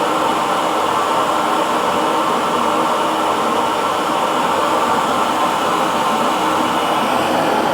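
Electric hair dryer running steadily: a constant blowing hum with no change in pitch or level.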